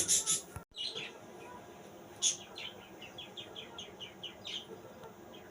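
Small birds chirping: a quick run of short, high chirps, about four a second, for a couple of seconds in the middle.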